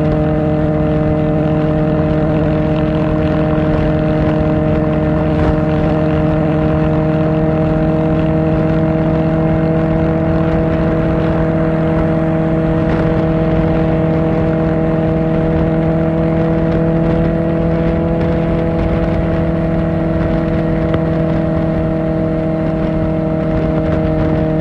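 Kawasaki Ninja ZX-4R's inline-four engine with an Akrapovič exhaust, cruising on the road at a steady engine speed, its pitch holding level throughout over a rushing noise.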